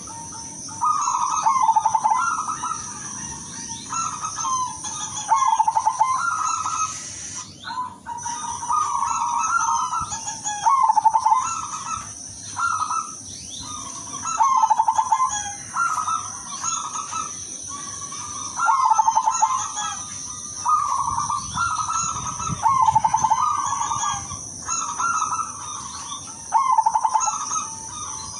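Silver zebra dove (perkutut) cooing in short, trilled phrases repeated about every one to two seconds. A steady high-pitched whine runs underneath and drops out briefly about eight seconds in.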